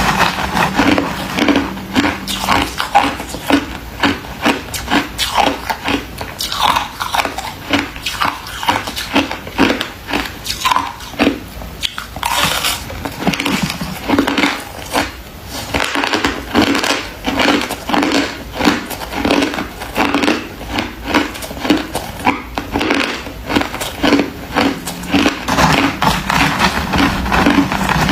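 Crunchy freezer frost being bitten and chewed close to the microphone: a steady run of crisp crunches, a few each second, with brief lulls near the middle.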